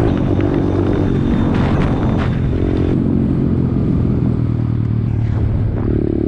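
Pit bike's small single-cylinder engine running under way; its note softens about a second in and strengthens again near the end.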